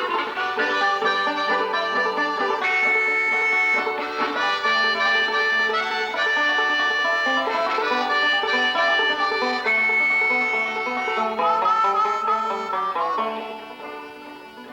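Background music led by a plucked banjo playing a quick melody, fading out near the end.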